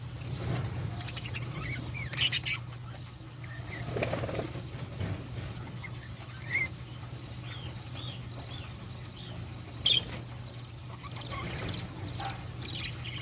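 Caged budgerigars: a run of short chirps from about six to nine seconds in, with a few brief bursts of wing flapping, over a steady low hum.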